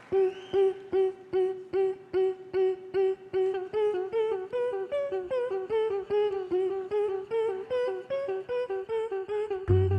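Vocal performers using only their mouths to imitate a plucked, synth-like riff: one note repeated in a quickening pulse with a melody line moving over it. A deep, steady bass tone comes in near the end.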